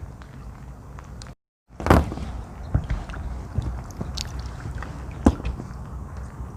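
Handling noise from magnet fishing: scattered sharp clicks and knocks over a low steady rumble, with a brief dropout about a second and a half in, followed by the loudest knock.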